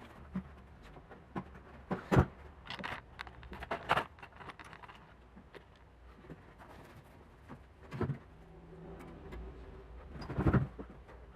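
Scattered knocks, clicks and rustles of hands working with materials and tools, with the loudest knocks about two seconds in and near the end.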